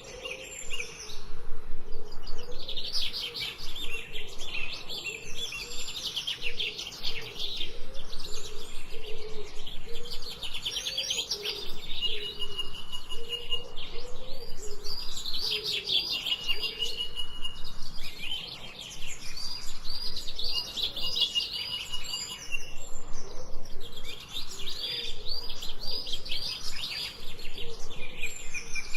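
Songbirds chirping in fast runs of repeated high notes, one burst after another with short pauses between. A quieter, lower wavering call runs beneath.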